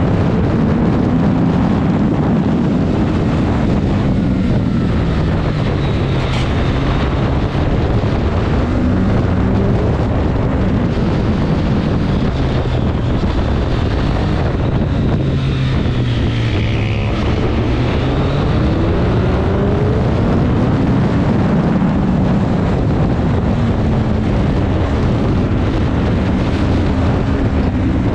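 Triumph Street Triple RS 765's inline three-cylinder engine heard on board at track speed, with wind buffeting the microphone. Its pitch drops through the first half as the bike slows for a corner, then climbs again as it accelerates out.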